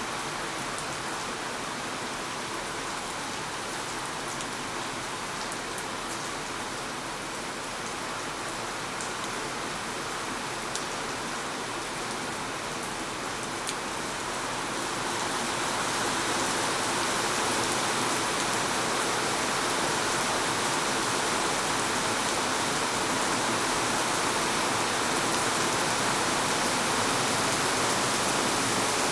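Steady rain falling, a dense hiss with scattered drop ticks in the first half. It grows louder about halfway through and stays louder to the end.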